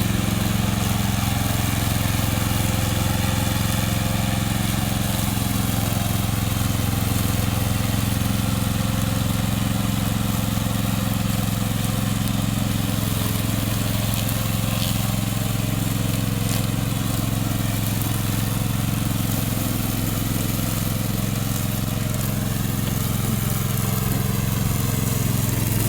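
Gasoline engine of a remote-controlled lawn mower running at a steady, unchanging speed.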